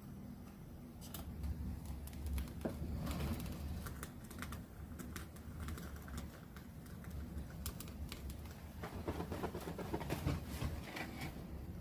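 Many light, irregular clicks and taps, over a steady low hum.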